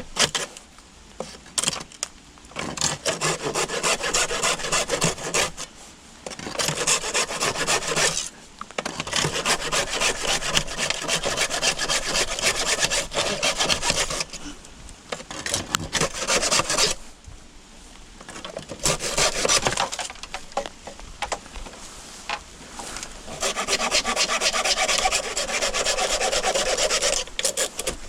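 Bamboo saw cutting through a bamboo stalk in rapid back-and-forth strokes, in long bouts with a few short pauses.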